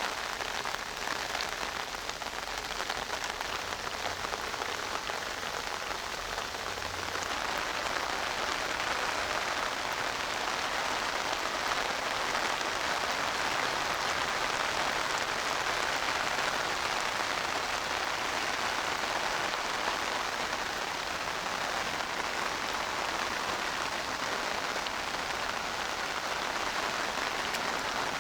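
Steady rain falling, a fine even patter that grows a little heavier about seven seconds in.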